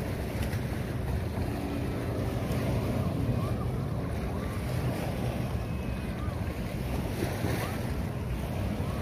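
Sea surf washing on the beach, with wind buffeting the microphone: a steady, even rush of noise.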